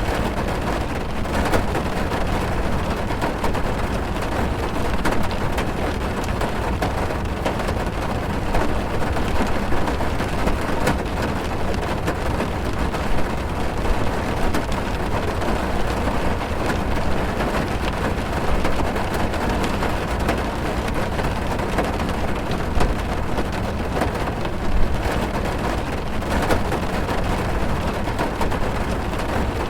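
Heavy rain drumming on a car's roof and windows, heard from inside the car: a dense, steady patter of drops with no let-up.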